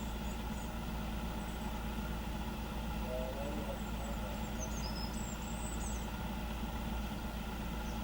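Engine idling steadily, a constant hum with several fixed tones, with a few faint high chirps about five seconds in.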